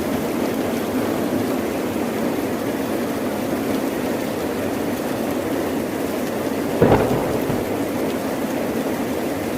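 Steady heavy rain, with one sudden crack of thunder and a short rumble about seven seconds in.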